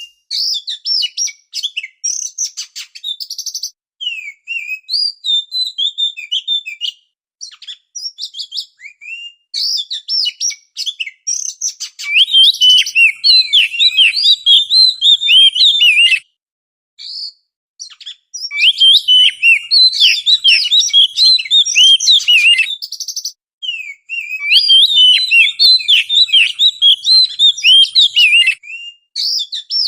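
Oriental magpie-robin (kacer) singing: fast, varied whistled phrases that rise and fall, mixed with short harsh, buzzy notes. It sings in bursts broken by brief pauses, most fully in the second half.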